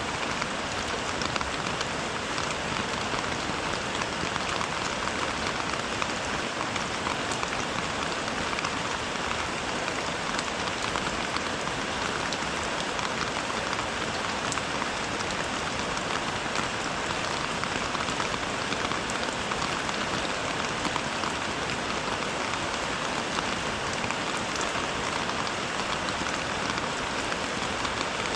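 Steady rain falling, a dense even patter of many small drops that holds at one level throughout.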